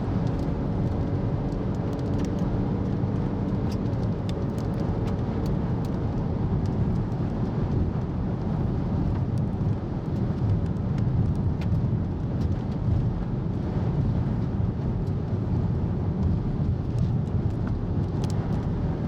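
Road noise inside a moving car: a steady rumble of tyres and engine, with scattered light ticks.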